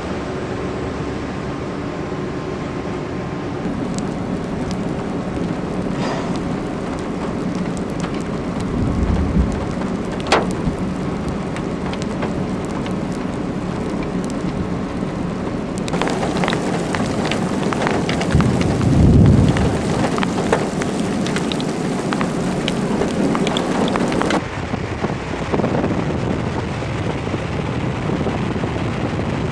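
Heavy thunderstorm rain falling steadily, with scattered sharp ticks of drops striking. Thunder rumbles about nine seconds in and again, louder, around nineteen seconds.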